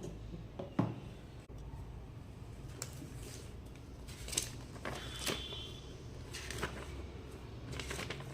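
Scattered light clicks and knocks of packaging and parts being handled during an unboxing, over a faint steady hum.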